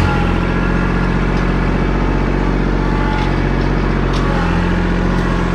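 Engine idling steadily, its note shifting slightly about four seconds in.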